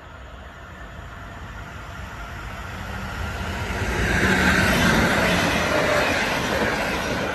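Passenger train approaching and rushing through a level crossing, its rumble growing steadily louder, loudest from about four seconds in, and easing off near the end.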